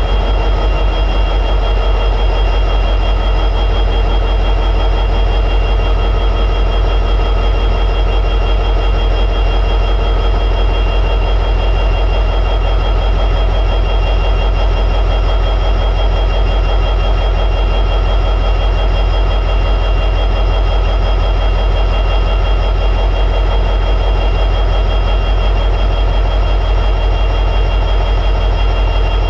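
EMD 16-710G3B two-stroke diesel prime mover of an SD60E locomotive running steadily in high idle, a constant heavy rumble with steady high tones above it.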